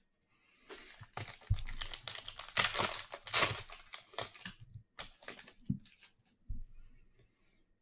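Foil wrapper of a football trading card pack being torn open and crinkled for about four seconds, followed by a few lighter rustles and taps as the cards are handled.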